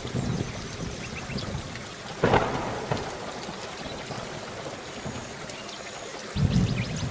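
Steady rain falling, with a sharp crack of thunder about two seconds in and low rumbling thunder starting near the end.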